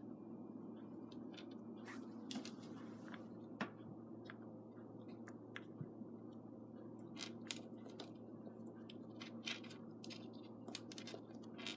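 Scattered small clicks and scratching sounds at irregular intervals over a steady low hum, in a small room.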